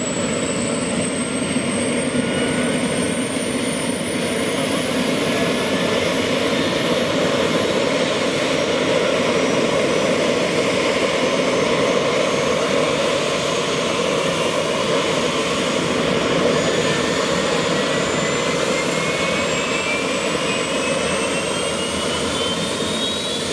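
Rolls-Royce 250-C30G turboshaft engine of a Bell 222 helicopter spooling up during engine start: a steady turbine rush with thin high whines slowly rising in pitch, one climbing more steeply near the end.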